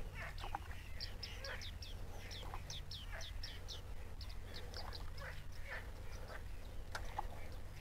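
Birds calling in a chorus: a run of quick, high chirps that each fall in pitch, several a second, mixed with scattered lower calls.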